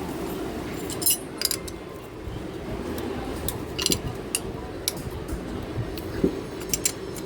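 Hand tools and small metal engine parts clinking and tapping against each other, a series of short sharp clinks in small clusters, over a steady low background hum.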